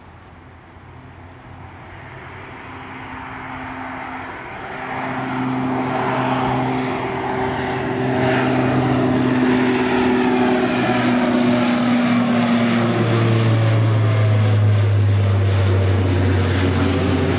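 An airliner's engines growing louder over the first several seconds as it approaches, then holding at a loud, steady level. Its steady engine hum drops in pitch a little past the middle as it goes by.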